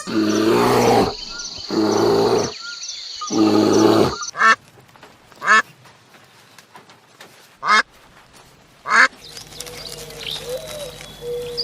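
Ducks quacking: three drawn-out quacks in the first four seconds, then four short single quacks spaced a second or two apart. After about nine seconds a steady low hum takes over.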